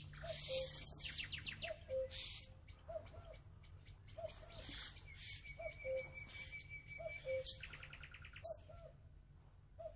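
Birds calling and chirping: a low call repeats about once a second, while other birds give rapid high trills and one long, steady whistled note in the middle.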